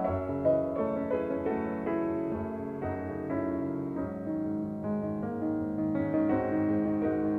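Background piano music, gentle sustained notes and chords.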